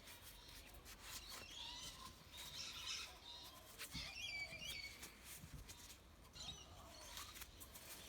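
Faint birdsong: scattered chirps and short warbling phrases, busiest about halfway through, with a few soft clicks.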